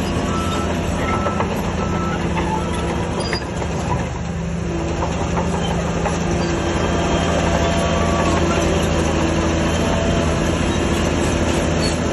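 Crawler bulldozer working: its diesel engine running steadily under a dense metallic clatter of steel tracks, easing briefly about four seconds in and growing a little louder from about six seconds in.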